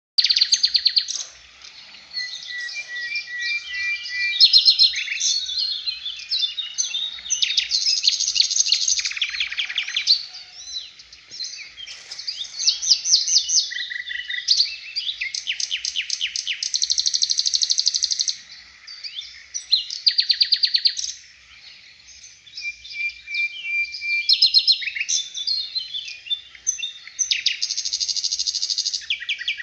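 A songbird singing a long, varied song of rapid trills, chips and buzzy runs with short pauses between phrases: the fast 'tembakan' style of song that keepers play to teach pet songbirds such as magpie-robins and long-tailed shrikes.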